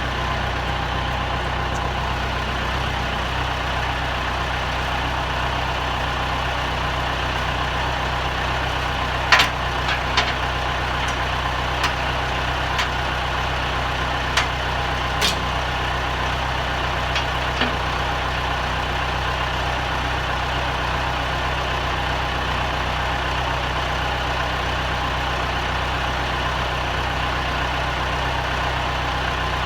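Tractor engine idling steadily, with a few sharp metallic clicks and knocks partway through, the first the loudest.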